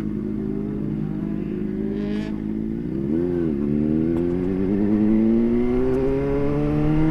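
Motorcycle engine heard from the rider's seat, running steadily at first, with a quick throttle blip about three seconds in. After the blip the engine pitch climbs slowly and steadily as the bike accelerates.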